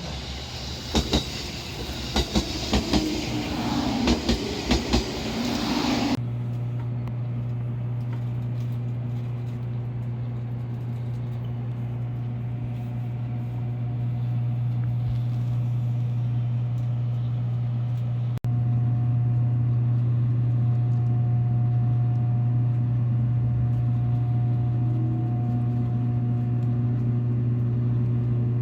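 A train running on the line, heard from on board. For the first six seconds there is a rushing noise with sharp wheel clicks over the rail joints. Then the sound switches suddenly to a steady low hum from the running train.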